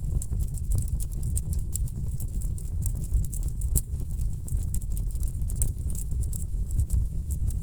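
Wood fire in a fireplace crackling: a steady low rumble of burning logs with many irregular sharp pops and snaps.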